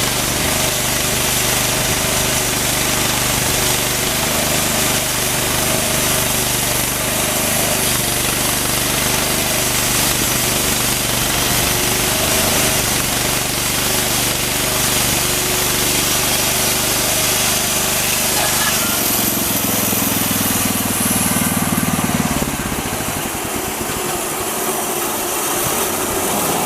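Engine-driven homemade band sawmill running, its resharpened Wood-Mizer Turbo 7-degree band blade cutting through an old mesquite trunk, with a steady engine drone under the hiss of the blade in the wood. About 19 seconds in the sound changes, and about 22 seconds in the low drone drops away and the overall sound eases off.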